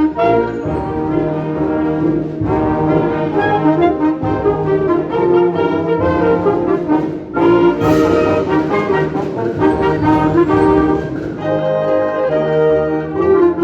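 Wind band playing live, the brass to the fore, with a crash a little past halfway.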